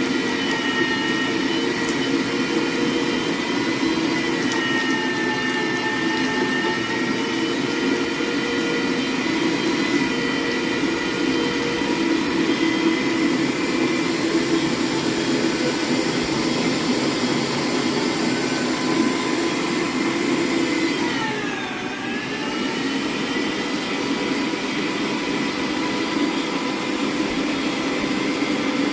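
Electric meat grinder running steadily as it grinds chunks of pork shoulder, a continuous motor whine. The pitch dips briefly about three quarters of the way through, then comes back up.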